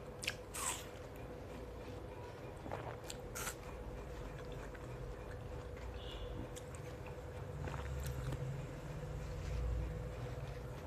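Close-up biting and chewing of watermelon: a few crisp crunches in the first few seconds, then quieter, sparser chewing sounds. A faint steady hum sits underneath, and a low rumble swells near the end.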